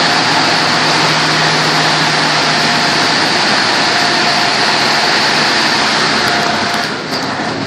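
Car wash machinery running: a steady loud rushing noise with a motor hum underneath, which drops away about seven seconds in.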